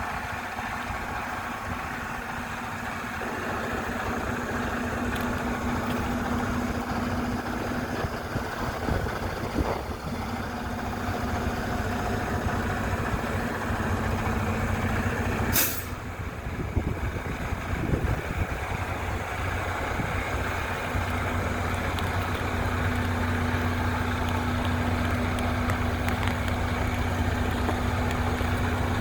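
Detroit DD15 diesel engine of a Western Star 5700XE truck running steadily, with a short, sharp burst of air hiss about halfway through.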